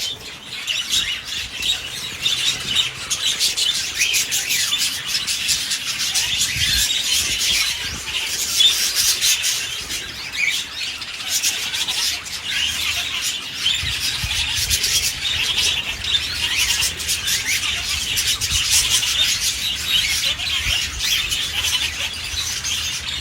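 A pair of king size budgerigars chattering and warbling nonstop in fast, high chirps. A low steady rumble joins underneath about halfway through.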